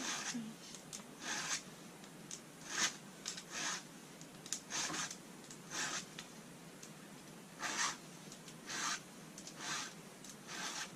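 A dozen or so short, irregular rustling and scraping noises, each lasting a fraction of a second.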